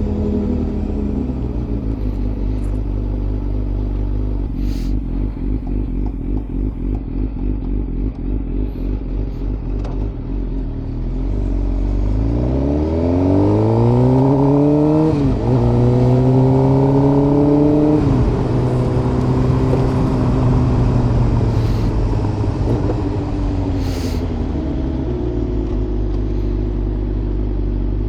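Suzuki GSX-R750 inline-four engine running under way, its revs climbing about twelve seconds in, dropping sharply at an upshift and climbing again, then easing off. A few sharp clicks sound over it.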